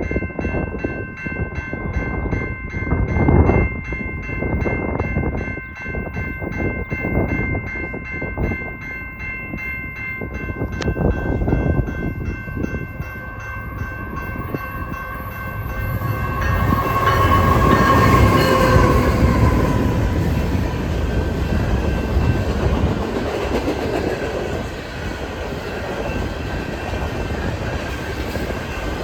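Freight train passing, led by a GE ET44AC diesel-electric locomotive. Steady high tones sound through the first half, and the locomotives grow loudest about two-thirds of the way through. The cars then roll by with a steady rumble and clatter on the rails.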